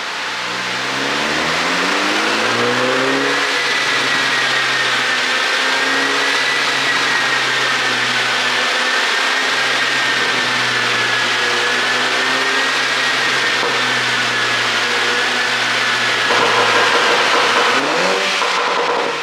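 2018 MINI Cooper JCW (F56) turbocharged four-cylinder engine running on a pop-and-burble ECU tune. The revs rise over the first few seconds, the engine then runs at a fairly steady speed, and it gives short rising revs near the end.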